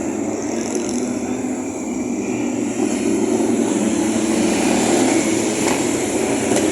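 Motorcycle engines running as a procession of bikes rides past, a steady mixed drone that gets a little louder about three seconds in.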